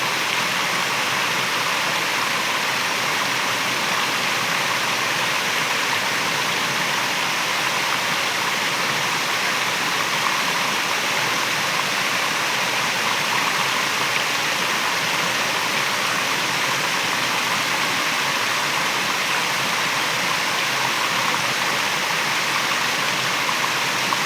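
Waterfall: water falling and rushing with a steady, unbroken noise.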